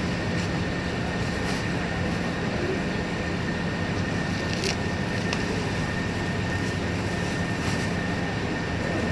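Steady engine and road noise inside a moving vehicle, an even rumble with a constant low hum, with a few faint short high ticks now and then.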